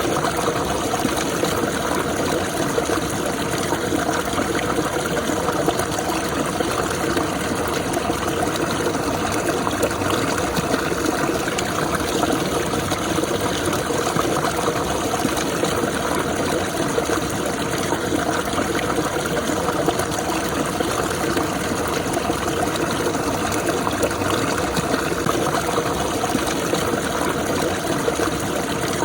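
Running water, steady and unbroken.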